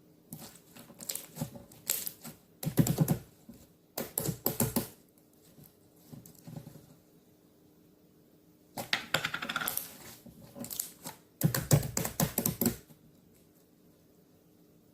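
Handmade slime being squeezed and poked by hand, giving several bursts of rapid crackling clicks and pops with a pause in the middle.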